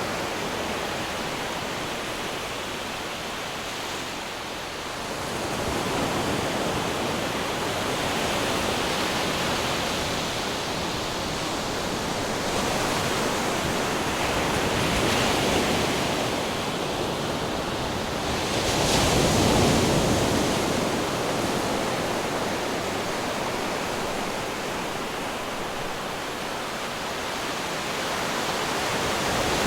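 Ocean waves breaking on rocks: a continuous rushing surf that swells and ebbs, with the loudest wave crashing about two-thirds of the way through.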